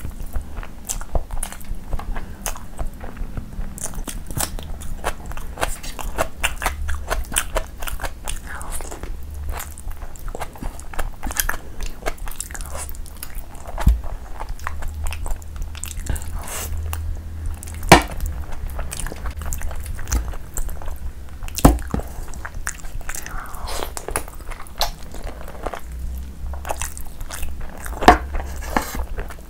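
Close-miked wet chewing and biting of curried mutton pieces, a steady run of small mouth clicks and smacks with a few sharper, louder clicks at intervals.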